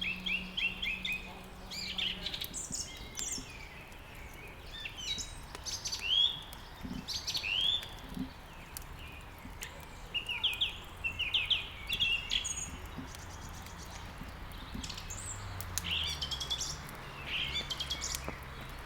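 Songbirds chirping and singing in many short, quick calls, one after another, over a steady background hiss.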